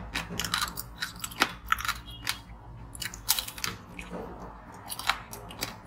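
Close-miked biting and chewing of a purple-coated, sprinkle-covered dessert bar: irregular sharp crunches and crackles, several a second.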